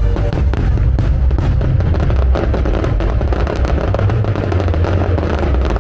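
Fireworks going off in many quick bangs and crackles over loud music with a heavy bass.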